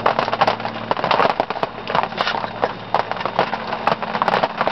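Irregular cracking and snapping of wood and branches as a tree is moved and broken up, with a dense crackle throughout.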